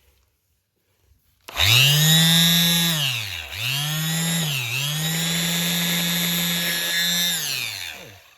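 Bosch GSS 23 AE orbital finishing sander switched on for a test run on newly clipped-in sandpaper: the motor comes straight up to speed with a high whine, drops sharply in speed twice and picks back up, then is switched off and winds down near the end.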